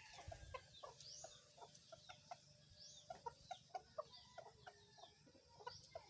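Faint, scattered bird calls: short repeated low notes mixed with high rising chirps about once a second.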